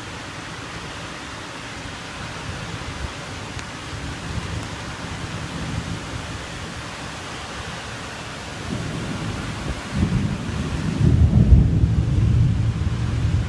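Steady rain falling. About nine seconds in, a deep low rumble builds and is loudest near the end.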